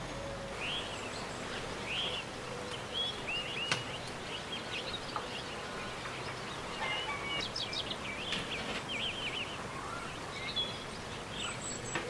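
Small birds chirping and twittering over a steady background hiss, with a busier run of quick chirps about seven to nine seconds in. One sharp click a little under four seconds in.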